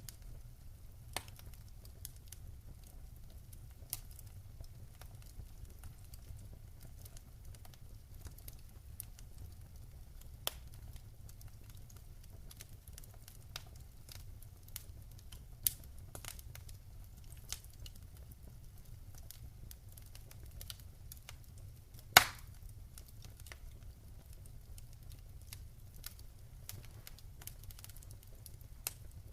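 Wood fire crackling in a fireplace: scattered sharp snaps and pops over a low steady rumble, with one much louder pop about three quarters of the way through.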